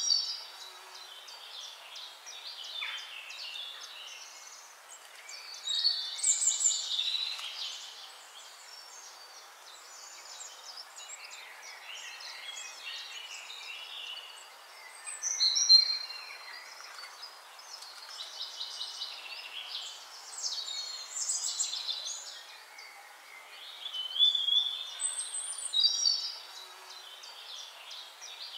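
Birds chirping and singing over a steady hiss, with louder bursts of song every several seconds.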